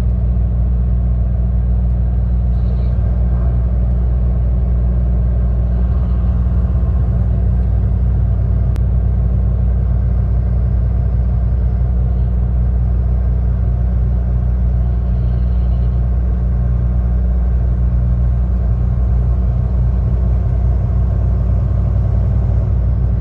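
Tractor-trailer truck under way: a steady low drone of its diesel engine and road noise heard from inside the cab.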